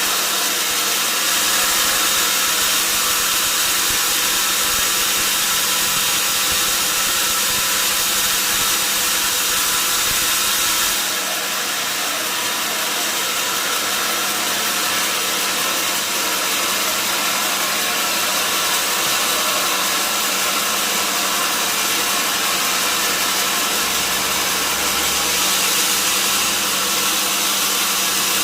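Sawmill wood-sawing machine running steadily: a continuous hum under an even hiss, dropping slightly in level about eleven seconds in.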